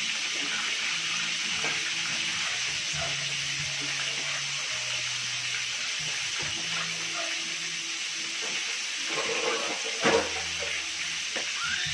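Chicken pieces frying in hot oil in a pan on a gas burner, a steady sizzle. A brief louder knock comes about ten seconds in.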